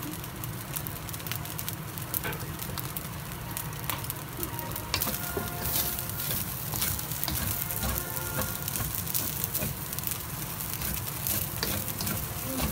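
Beef fried rice sizzling in a stainless steel wok while a wooden spatula stirs and scrapes it. From about five seconds in, the spatula's clicks and knocks against the pan come more often.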